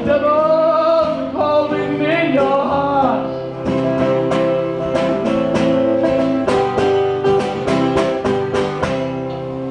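Closing bars of a live folk song: a long wordless sung note over strummed acoustic guitar chords, then the guitar strumming on alone at about three strums a second.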